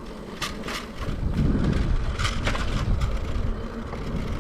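Electric bike ride: wind on the microphone and tyre rumble, growing louder about a second in, with a few sharp rattling knocks from the bike over the path.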